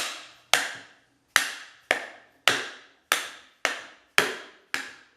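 About nine sharp, evenly spaced hammer taps on the pump motor's end bell, a little under two a second, each ringing briefly. The taps stop just before the end.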